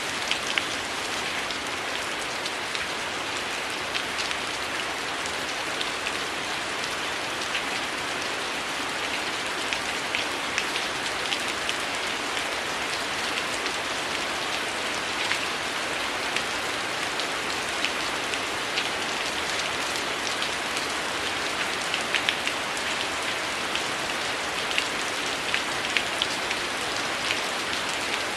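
Heavy rain falling steadily, with scattered short, sharp crackles from a wood fire over it.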